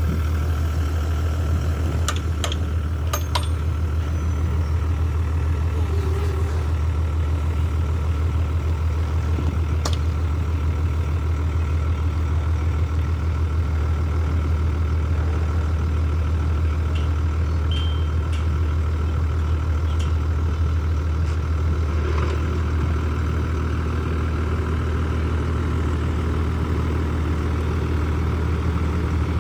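Heavy diesel engine of earthmoving machinery running steadily at a constant low pitch, with a few faint clicks about two to three seconds in.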